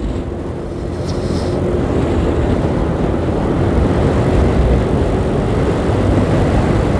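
Wind rush and road noise while riding a 125cc learner motorbike, with a faint steady engine note under it; it builds a little over the first couple of seconds, then holds steady.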